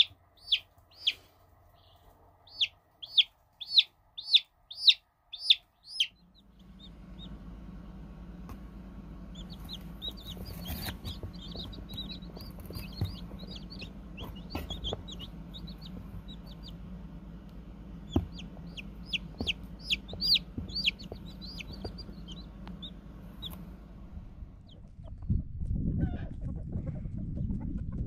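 Baby chicks peeping: loud, high, downward-sliding peeps about two a second for the first six seconds, then more peeps over a steady low hum, with a louder rustle near the end.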